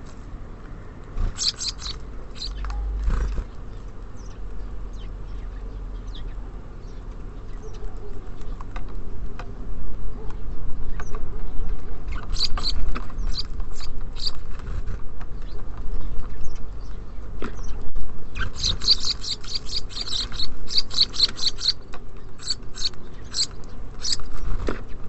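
Small songbirds at a feeder chirping in short high-pitched bursts, with a rapid run of chirps past the middle. Light taps and knocks come in between.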